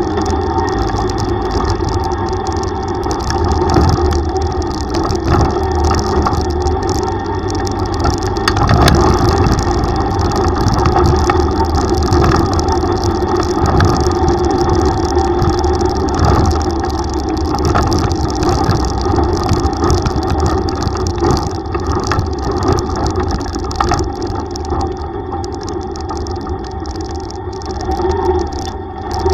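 Yamaha YTX125 tricycle's single-cylinder engine running steadily on the move, loudness swelling a little now and then.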